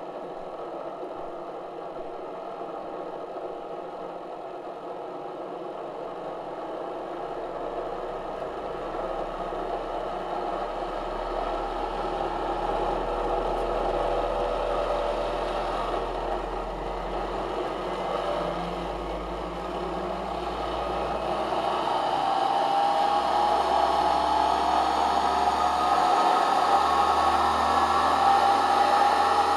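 Electric motor, turned up on a variac, spinning a badly cracked record at ever higher speed: a whir with a rattle that gets louder in two steps, its tones slowly rising in pitch over the last several seconds as the motor speeds up.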